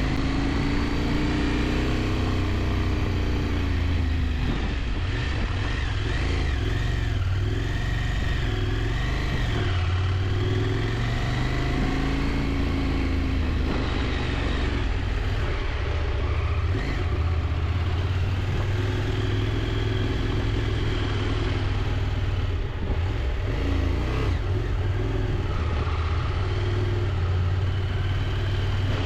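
KTM 890 Adventure's parallel-twin engine running under way, its revs rising and falling again and again through the curves, over steady wind and road noise.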